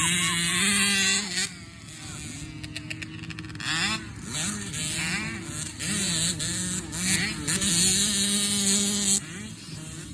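Motocross dirt bike engines revving up and down repeatedly, several bikes overlapping at different pitches, as they are ridden hard around the track.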